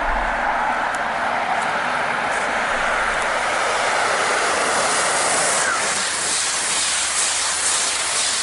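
Train passing by on rails: a steady rush of wheel and air noise that grows brighter about halfway through.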